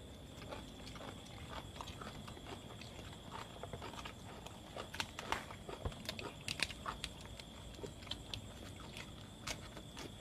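Mouth sounds of two people eating with their fingers: irregular wet smacks, small clicks and crunches of chewing crispy grilled rat and fresh lettuce.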